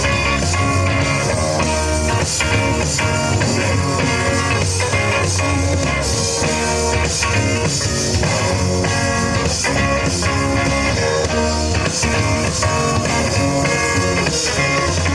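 Live rock band playing an instrumental passage: electric guitars with bass and drums, no vocals.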